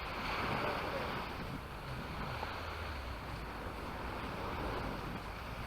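Sea surf washing on the beach with wind buffeting the microphone, a steady noise with a low rumble underneath. Faint voices of passers-by in the first couple of seconds.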